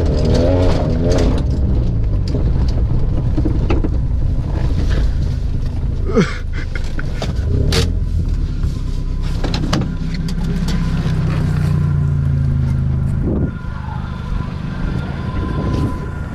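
Opel Frontera's straight-pipe exhaust with the engine running, a steady low drone broken by several sharp knocks and clunks. The engine note drops back about three seconds before the end.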